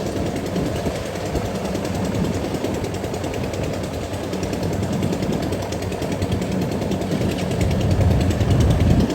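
Rice combine harvester running, its engine humming under a steady, dense rattle of the cutting and threshing machinery; it grows louder about eight seconds in.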